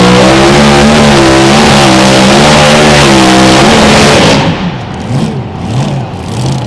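Mini rod pulling tractor's engine at full throttle under load, its pitch wavering. About four seconds in the throttle comes off and the engine drops to a much quieter, low-revving note.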